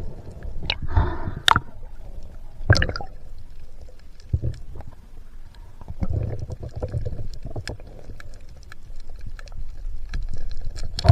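Water sloshing and rushing over the camera of a diving spearfisher, in uneven surges, with scattered sharp clicks and knocks.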